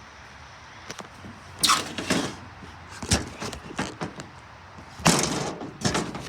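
A string of irregular knocks and thumps, like objects being handled or bumped. The loudest comes just under two seconds in, and a longer, heavier one about five seconds in.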